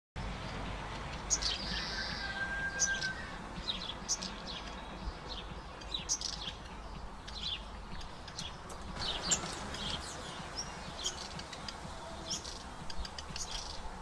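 Small birds chirping: short high chirps at irregular intervals, with a thin held whistle about two seconds in, over a low steady outdoor background.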